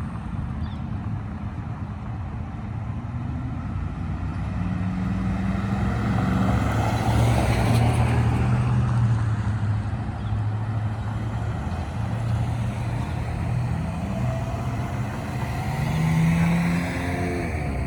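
Motor vehicle engines running with road traffic passing: a steady low engine hum under tyre and road noise that swells to its loudest about eight seconds in, with an engine changing pitch near the end.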